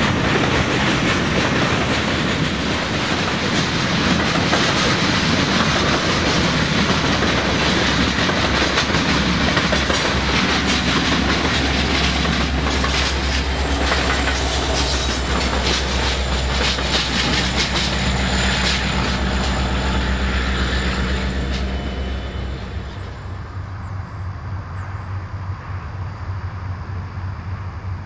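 Freight train passing close by: the cars rumble and the wheels click-clack over the rail joints. A BNSF diesel locomotive's engine hums steadily as it goes by in the middle. About 22 seconds in, the sound drops to a quieter, more distant rumble.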